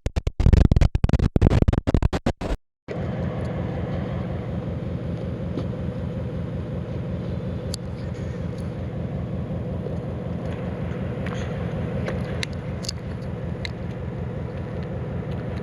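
A loud, choppy, stuttering burst lasts a couple of seconds and cuts out abruptly. An engine then runs steadily with a low rumble and an even, fast throb, with a few faint clicks.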